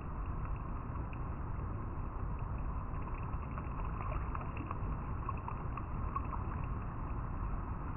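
River water flowing and rippling over rocks: a steady rush with scattered small splashing ticks.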